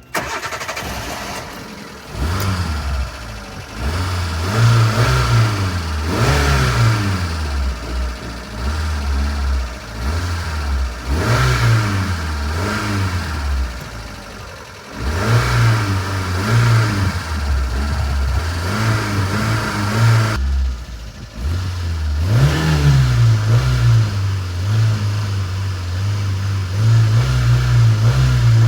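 Old car's hard-starting engine running and being revved again and again on the pedal, its revs rising and falling. It nearly dies about fourteen seconds in and again around twenty seconds, catches each time, and settles into a faster steady run near the end.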